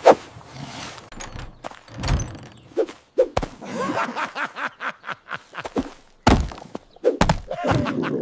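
Several dull thuds and knocks at irregular intervals.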